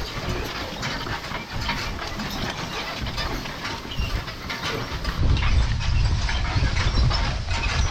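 Horse-drawn farm equipment rattling and clanking as it rolls along, with a heavier low rumble from about five seconds in.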